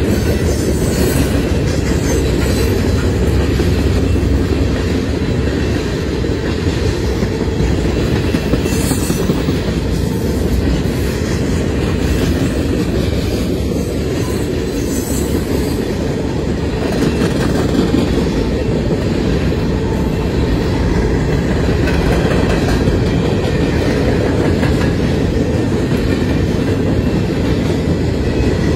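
Freight cars of a long Canadian National mixed freight train rolling past: a steady rumble of steel wheels on rail with a rhythmic clickety-clack over the rail joints.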